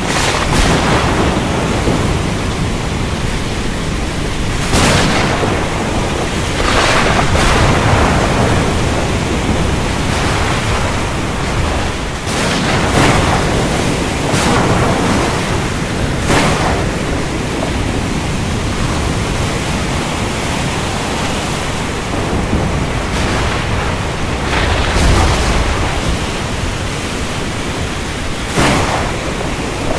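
Thunderstorm: heavy rain with rolling thunder and repeated sharp crackles of nearby lightning, and a deep rumble of thunder about 25 seconds in.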